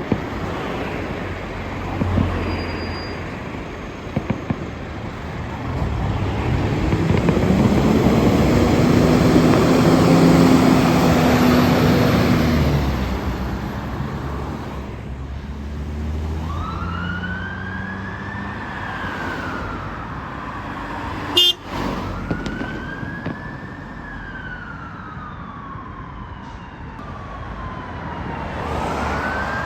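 A fire engine pulls past with its engine loud for several seconds, then its siren sounds a slow wail, each sweep rising over a couple of seconds and falling away over several more. A single sharp bang cuts in about two-thirds of the way through.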